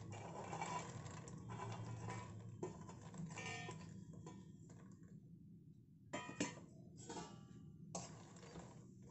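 Fox nuts (lotus seeds) tipped into hot mustard oil in a stainless steel kadhai, clicking and sizzling as they fry. In the second half there are a few separate stirring strokes with a spatula.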